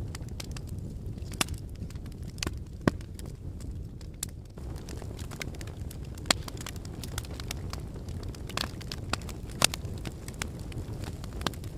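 Wood fire burning in a fireplace: a steady low rumble of flames with irregular crackles and sharp pops from the burning logs, the loudest a few seconds apart.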